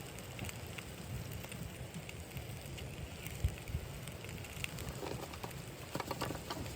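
Wood fire crackling with scattered small pops that come thicker about five seconds in, over a steady low rumble.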